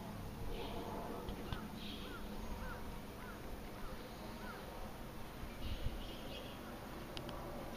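Birds calling: a run of about six short, clear rising-and-falling notes about half a second apart, with a few brief higher chirps before and after, over a steady low background hum.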